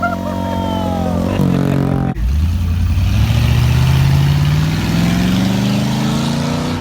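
Car engine running and climbing steadily in pitch for about four seconds, as if revving up or accelerating, starting abruptly about two seconds in after a fading pitched sound.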